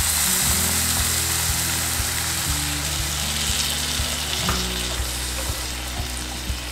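Tomato purée sizzling and spitting in hot oil over fried onions in a nonstick pan, with a wooden spatula stirring and scraping through it. The sizzle is strongest just after the purée goes in and eases slightly later on.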